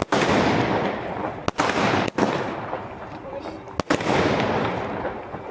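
Multi-shot aerial fireworks cake firing: a sharp bang every one and a half to two seconds, each followed by a fading hiss and crackle.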